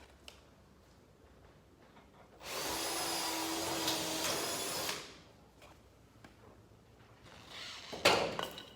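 Power drill runs steadily for about two and a half seconds, typical of drilling out a rivet that holds a caravan's exterior panel. Near the end comes a shorter, rougher burst with a sharp knock.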